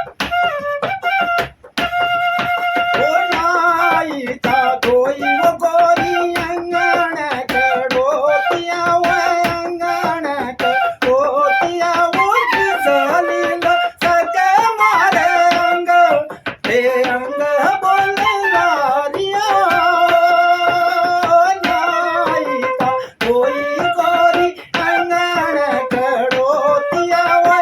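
Folk music: a singer's voice with a bansuri (bamboo flute), the melody gliding and ornamented, over frequent sharp clicks.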